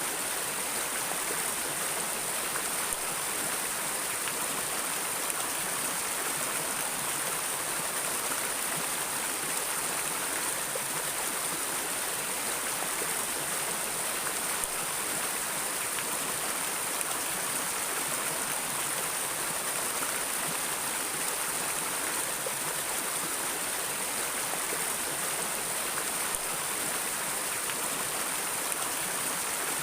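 Flowing river water, a steady, even rush with no breaks or changes.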